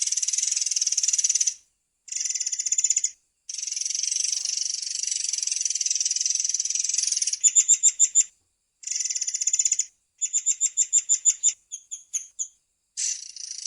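Long-tailed sibia (murai air) singing: long, high-pitched rapid trilling rolls broken by brief pauses. In the latter half the rolls give way to runs of separate sharp, repeated notes before a trill starts again near the end.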